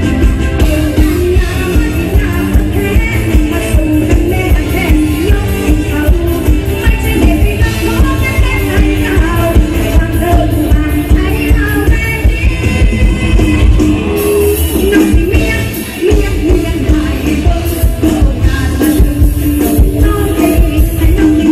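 Live mor lam band playing Isan dance music with a fast, steady beat, with singing over it. About two-thirds through, the bass and drums drop out for a moment, then come back in.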